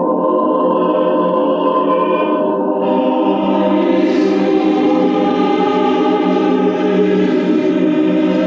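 Choir singing long held chords, the sound growing fuller and brighter about three seconds in.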